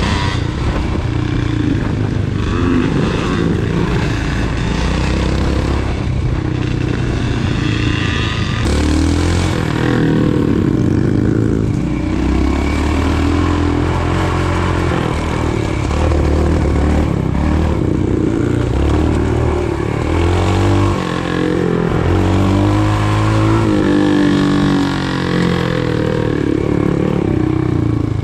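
Royal Enfield Himalayan's single-cylinder engine being ridden hard off-road, its pitch rising and falling again and again with the throttle and gear changes.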